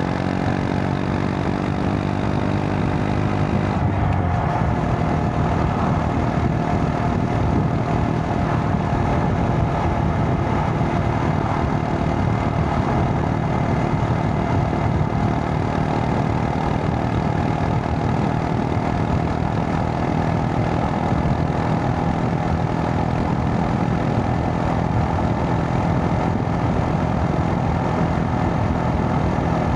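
A Honda Monkey 125's single-cylinder four-stroke engine running under way. Its note climbs slightly at first, changes abruptly about four seconds in, then holds steady.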